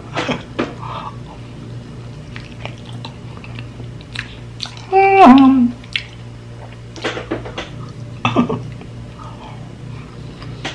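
Chewing and wet mouth smacks of a man eating soft, sugar-glazed fried sweet potato (camote cue) off a bamboo stick. About five seconds in comes a short hum with a pitch that drops at the end, the loudest sound here.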